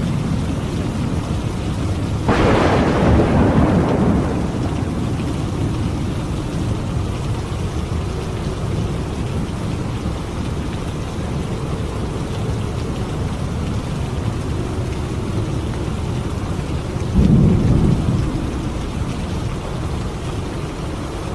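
Steady rain with thunder: a sharp thunderclap about two seconds in that rumbles away over a couple of seconds, and a lower, shorter rumble of thunder near the end.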